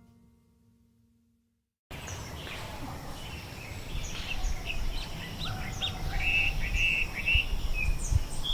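Silence for about two seconds, then outdoor ambience: many birds chirping and calling in short notes over a steady background hiss, growing a little louder.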